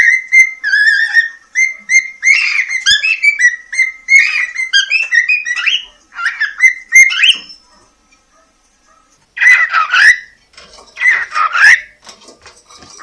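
Pet cockatiel whistling a quick, warbling song of short tuneful notes for about seven seconds, then, after a brief pause, giving two short raspy calls.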